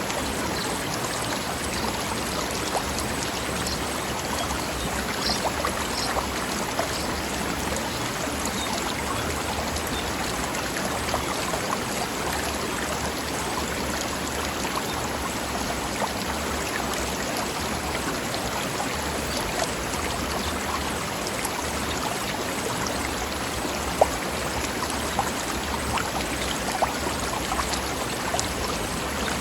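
Forest stream flowing over rocks: a steady rush of running water with now and then a sharper splash.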